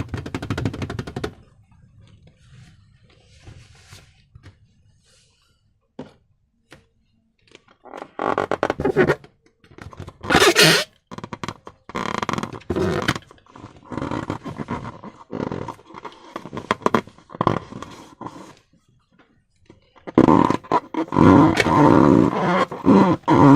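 Slime being squeezed and worked by hand, in irregular bursts of wet squelching with sticky clicks and pops. Faint for the first several seconds, then louder bursts that grow densest near the end.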